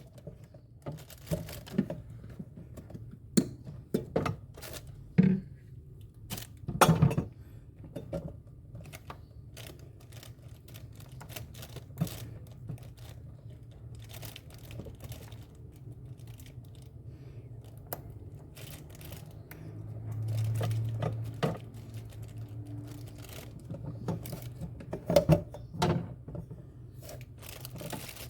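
Irregular clicks, knocks and crinkling of hands working on parts, over a steady low hum, with a brief louder low hum about two-thirds of the way through.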